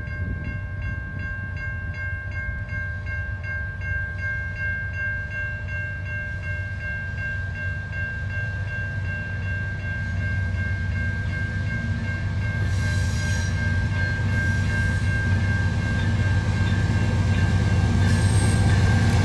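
Train approaching, its low rumble growing steadily louder, with a steady high ringing tone throughout.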